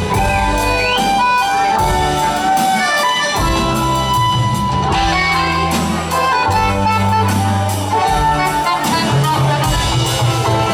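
Live band music in a bluegrass-style metal cover: an instrumental passage with a sustained, sliding lead line over bass and drums, no singing.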